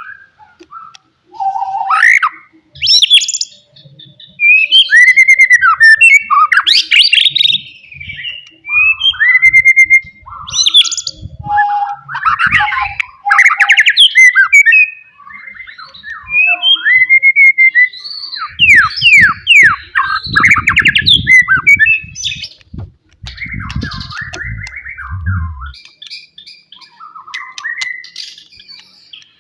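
White-rumped shama singing loudly in varied phrases: rich whistles, rapid trills and harsh buzzy notes, broken by short pauses. A low rumble sounds under the song for several seconds past the middle.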